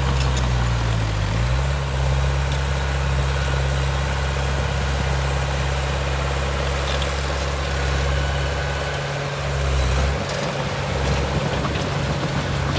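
Heavy diesel engine of earthmoving machinery running steadily with a low drone, its pitch dipping briefly about a second in.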